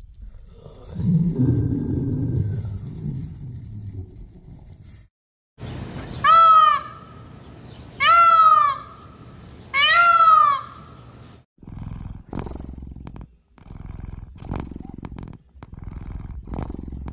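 A tiger growls low for about three seconds. Then a male Indian peafowl (peacock) gives three loud, arching calls about two seconds apart. Near the end comes a run of short, low animal sounds with the cheetah.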